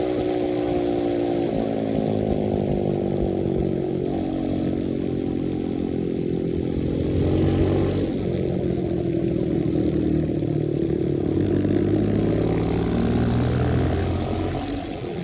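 125cc dirt bike engine running while riding, its pitch rising and falling as the throttle is worked, with a sharp drop about a second and a half in.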